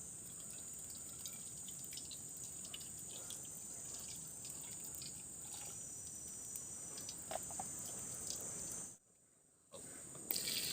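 Faint forest ambience: a steady high-pitched insect drone over a low hiss, with scattered light drips and ticks. It drops out completely for about a second near the end.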